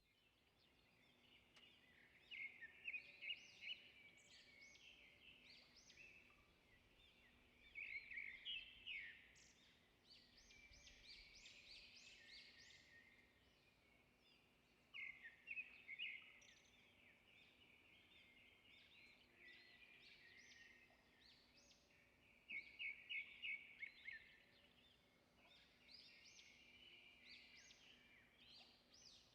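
Small birds chirping outdoors, faint: bursts of quick, high, twittering notes repeating every few seconds.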